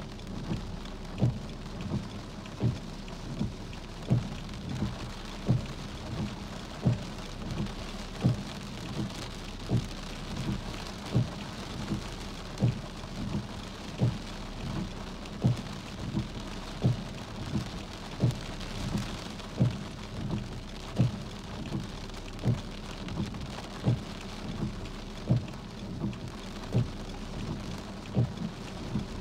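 Steady rain falling, with a regular low thump about three times every two seconds throughout.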